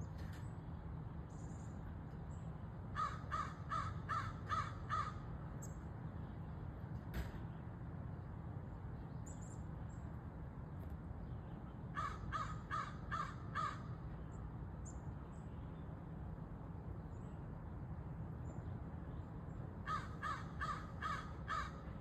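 A bird calling in three runs of about six quick calls each, roughly three calls a second, with fainter high chirps of smaller birds between the runs and a steady low rumble in the background.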